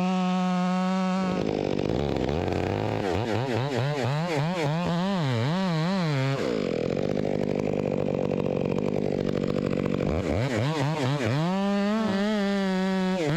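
Chainsaw running at full throttle, then dropping in pitch as it bites into the honey locust trunk, its note wavering under load while it cuts. About ten seconds in, it climbs back to full revs as the chain runs free.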